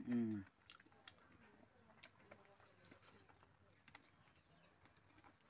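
Faint, wet, click-like mouth sounds of biting and chewing a piece of pork hock. A short voiced sound, falling slightly in pitch, comes at the very start.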